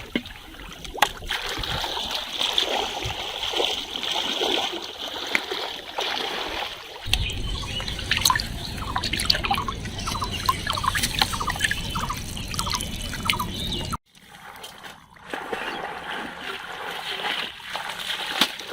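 Water trickling and splashing, with a low rumble for several seconds in the middle that cuts off suddenly about two-thirds of the way through.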